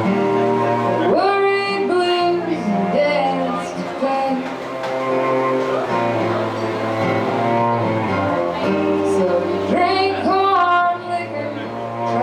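Folk string band playing live: plucked guitar and bowed cello hold the low notes under a melody line that slides and wavers.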